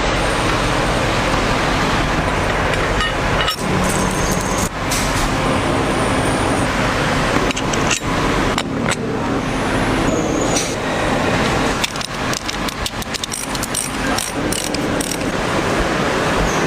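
Steady road-traffic noise with scattered sharp clicks, a cluster of them about twelve to fifteen seconds in.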